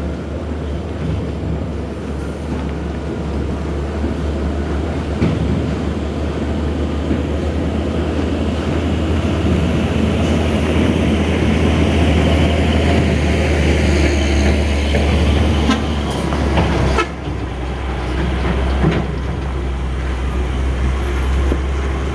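Heavy diesel truck engine labouring up a steep hill, a deep steady rumble that grows louder as the truck draws near and drops off suddenly about seventeen seconds in as it passes.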